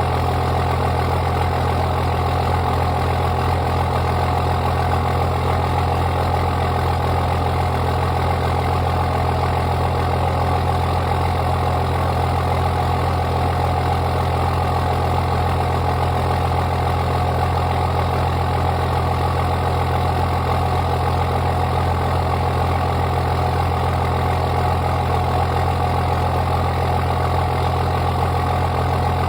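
A 24-valve Cummins 5.9-litre inline-six turbo diesel in a 2002 Ram 2500 idles steadily after a cold start, with a deep, even drone. It exhausts through a 4-inch downpipe into a 5-inch full straight pipe with no muffler.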